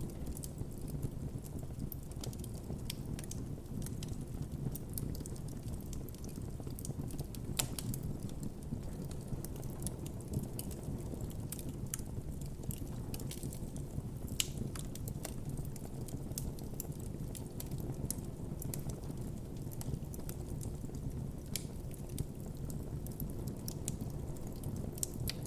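Wood campfire crackling and popping over a steady low rumble of the flames, with frequent irregular small snaps and a few sharper pops.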